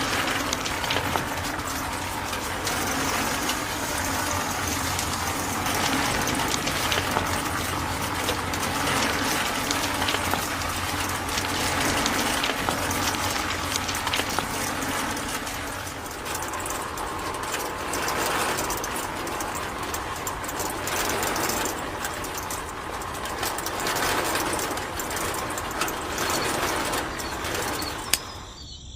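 Small motor-driven DIY mini tractor running steadily, with a dense crackling rattle throughout, dropping away shortly before the end.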